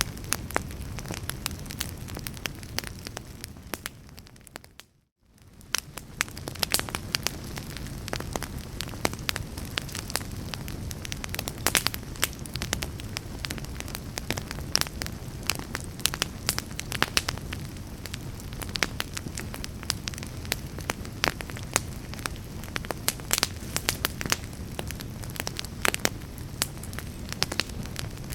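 Fireplace fire burning with a steady hiss and frequent sharp crackles and pops. About five seconds in it fades out almost to silence, then fades back up.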